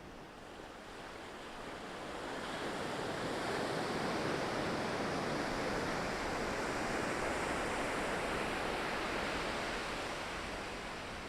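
Ocean waves breaking on the shore: a wash of surf that swells up about two seconds in, holds for several seconds and then slowly recedes.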